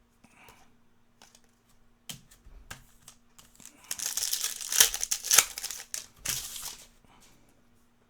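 A trading-card pack's foil wrapper crinkling and being torn open, in short bursts that are densest and loudest from about four to seven seconds in, with a few sharp snaps in the middle.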